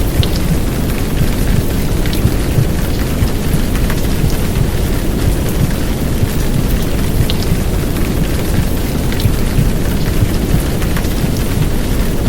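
A heavy downpour of rain mixed with a low, steady womb-sound rumble, a white-noise bed for soothing a baby to sleep. Scattered sharp drop ticks sit over the deep, even rush.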